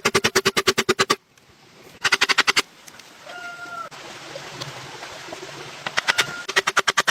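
Bursts of rapid, evenly spaced knocks, about ten a second, in three runs, with a quieter stretch between them that holds one short tonal call.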